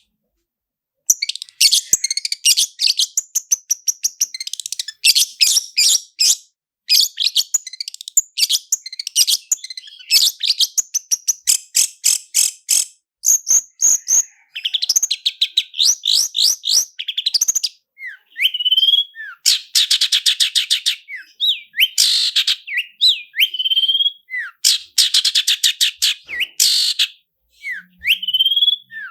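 Long-tailed shrike (cendet) singing loudly, starting about a second in, in long runs of very fast repeated notes (the 'roll'), broken in the second half by short rising whistled notes between bursts.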